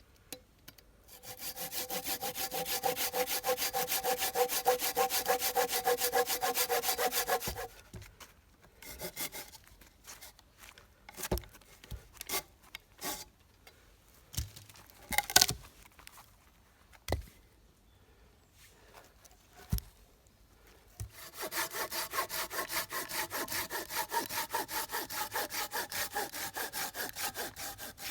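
Hand saw cutting through wood in fast, even back-and-forth strokes, with the blade ringing. There are two long runs of sawing, one near the start and one from about two-thirds of the way in. Scattered knocks and clicks of handling fall between them.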